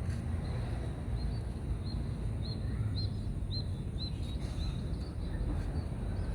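A bird calling a run of short, high chirps, about two a second, that fades out about two-thirds of the way through, over a steady low rumble.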